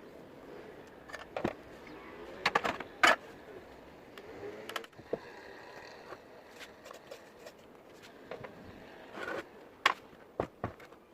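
Scattered clicks, knocks and scrapes of metal tools and sewing-machine parts being handled, the loudest a few sharp knocks about three seconds in and again near ten seconds.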